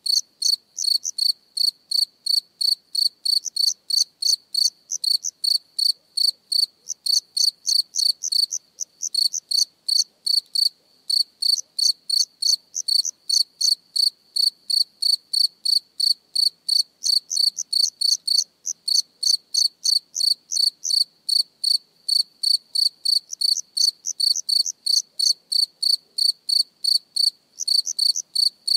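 A cricket chirping steadily and evenly, about three high-pitched chirps a second.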